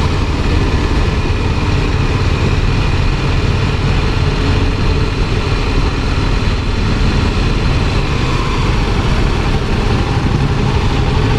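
Kawasaki Ninja motorcycle being ridden at a steady pace: a steady engine drone under loud rushing wind noise on the camera microphone.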